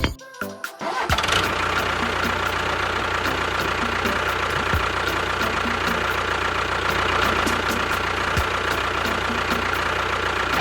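A small motor starts about a second in and then runs steadily, with background music and a steady beat underneath.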